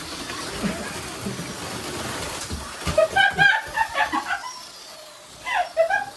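HO slot cars running on the track, a steady hiss-like noise, with a high-pitched voice laughing or squealing in short bursts about three seconds in and again near the end.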